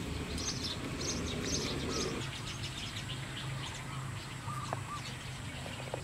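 Small birds chirping outdoors: short high calls repeating several times a second at first, then sparser, over a low steady background hum.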